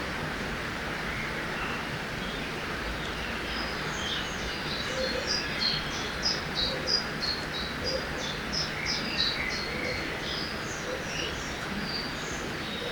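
Forest ambience by a river: a steady rush of flowing water, with a songbird singing a run of quick high chirps through the middle.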